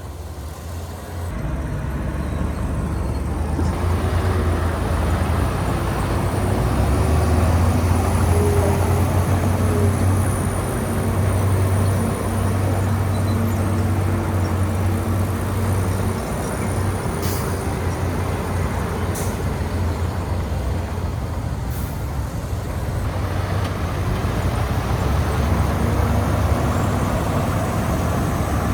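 Heavy diesel engine of earthmoving machinery running under load, a deep steady rumble with a wavering pitch that grows louder over the first few seconds and then holds.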